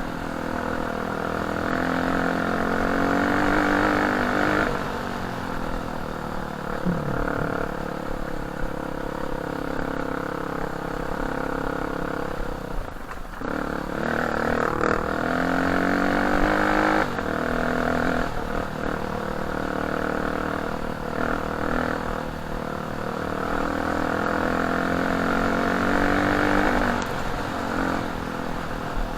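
Enduro dirt bike engine running under way, its note rising and falling with the throttle several times, with a brief drop in pitch and level about thirteen seconds in before it pulls up again.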